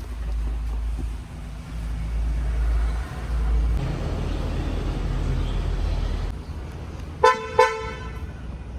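Two short honks of a vehicle horn, about half a second apart, near the end, over a low steady rumble.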